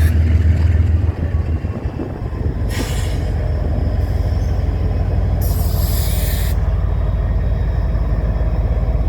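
Slow-moving freight train: the diesel locomotive's low engine drone, then railcar wheels rumbling steadily over the rails. Two brief hissing bursts come about three and about six seconds in.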